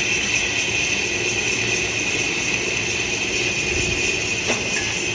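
A metal lathe running steadily, a continuous mechanical whir with a strong high-pitched hiss, as in turning a motorcycle brake hub.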